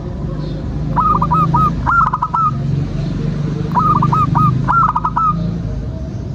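Zebra dove (perkutut) cooing: two phrases of quick, clipped notes about three seconds apart, over a steady low hum.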